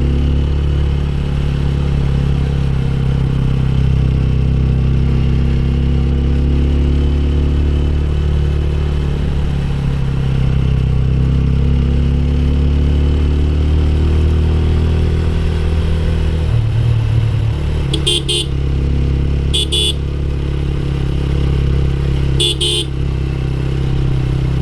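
Motorcycle engine running under way, its pitch drifting up and down with the throttle, with wind rushing over the microphone. A horn gives three short beeps near the end.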